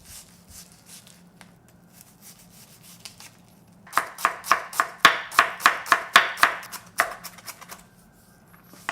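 Kitchen knife chopping onion on a cutting board. It starts with a few light taps, then from about four seconds in comes a quick, even run of knife strokes, about four a second, stopping just before the end.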